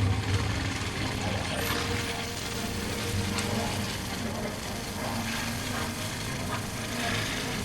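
Motorcycle engine running at a steady pace under rushing wind noise, heard from a helmet-mounted camera while riding.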